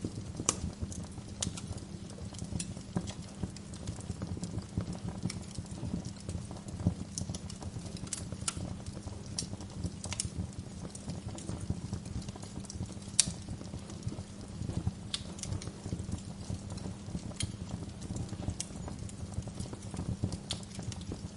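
Wood fire crackling, with irregular sharp pops and snaps scattered through, the loudest about two-thirds of the way in, over a steady low rumble.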